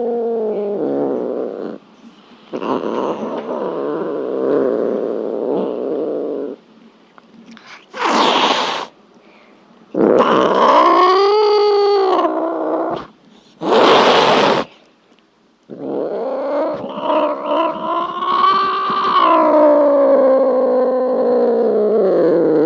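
A cat meowing in long, drawn-out yowls, one after another, the last lasting about seven seconds and rising then falling in pitch. Two short, harsh noisy sounds come between the calls.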